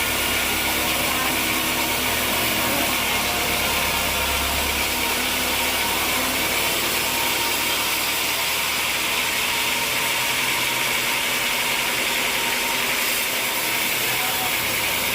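Sawmill machinery running steadily, a continuous mechanical noise; a low hum underneath drops away about five seconds in.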